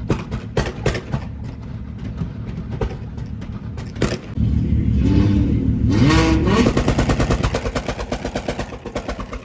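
A car engine on a two-step launch limiter, popping and banging. It runs with scattered pops, revs up with a rising note about five seconds in, then holds at the limiter with rapid, regular pops like gunfire.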